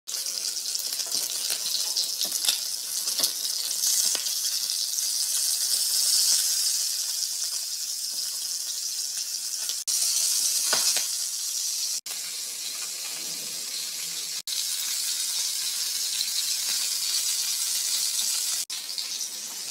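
Chicken pieces frying in hot oil in a pan: a steady high sizzle with scattered crackles, cutting out for an instant four times.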